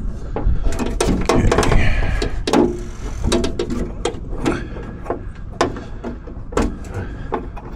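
Irregular metal clicks, knocks and rattles of a Jeep YJ door latch rod and its linkage being worked by hand while the rod is fitted into the latch.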